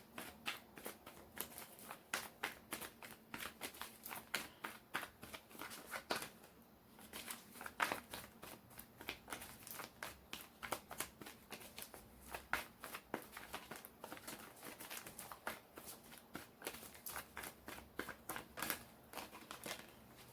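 A deck of tarot cards being shuffled by hand: a faint, fast run of soft card snaps and rustles, several a second, with a short pause about six to seven seconds in.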